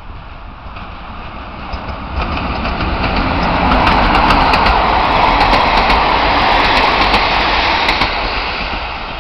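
Passenger train hauled by an electric locomotive passing close by. The rumble builds, is loudest from about four to seven seconds in with a run of sharp clicks from the wheels on the rails, then fades as the coaches pull away.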